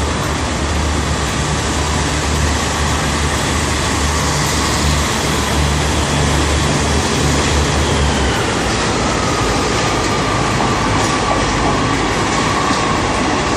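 Class 143 Pacer diesel multiple units pulling out of the station, their underfloor diesel engines running under power with a steady low drone. About eight seconds in the drone changes, and a higher whine slowly falls in pitch over the last few seconds.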